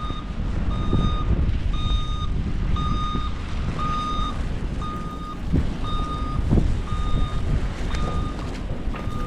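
Vehicle reversing alarm beeping steadily, about one beep a second, over a low rumble of traffic and wind. Two short knocks come a little past the middle.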